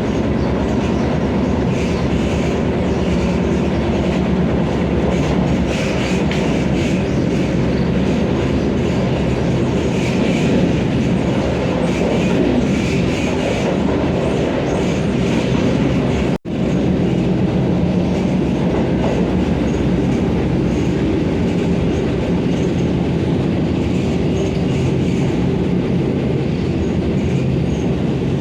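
Vande Bharat electric train set running at speed, its steady rumble of wheels on rail continuing throughout. The sound drops out for an instant about halfway through.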